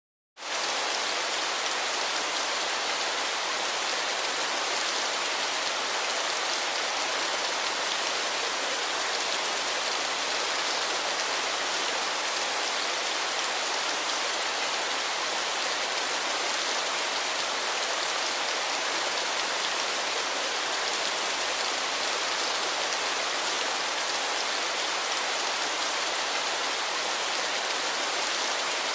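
Waterfall: a steady rushing hiss of falling water that sets in suddenly out of silence right at the start and holds unchanged.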